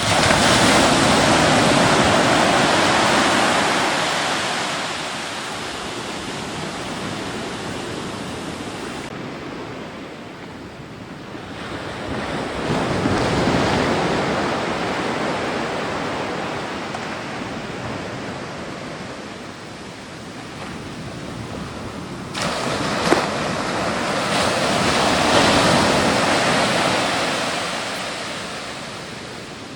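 Rushing wind-and-water noise, like surf with wind on the microphone, swelling and easing in long slow waves and changing abruptly a few times.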